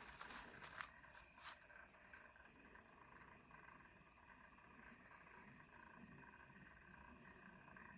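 Faint night chorus of insects and frogs: a steady high-pitched insect trill over lower, steady calling, with a few faint clicks in the first second or two.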